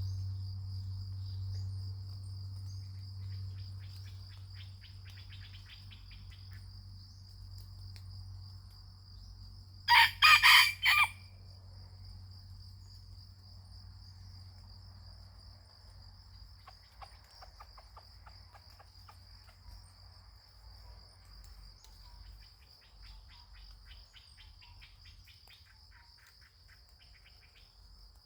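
A junglefowl rooster crows once, a short crow of about a second, about ten seconds in, over the steady high drone of crickets.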